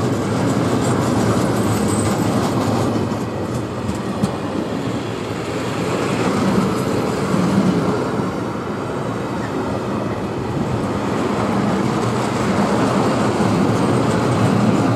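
Freight train of tarpaulin-covered open wagons rolling past: a steady noise of steel wheels running on the rails, swelling and easing slightly as the wagons go by.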